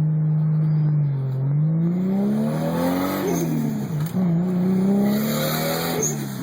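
Turbocharged Toyota 2JZ straight-six in a Supra, pulled hard through the gears. The engine note climbs for about two seconds and drops at an upshift about three seconds in, then climbs again and drops at a second shift near the end. A high hiss builds with each pull.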